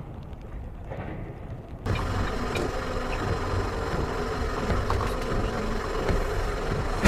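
Vehicle engine and road noise, a low steady rumble that jumps abruptly louder about two seconds in.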